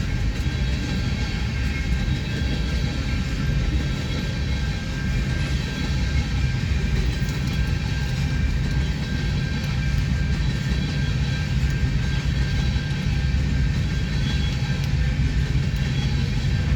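Freight train of tank cars rolling past, a steady rumble of wheels on the rails.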